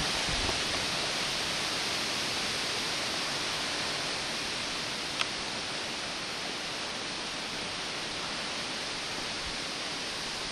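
Wind blowing through the treetops as a steady hiss that eases slightly over the first few seconds. A single small click comes about five seconds in.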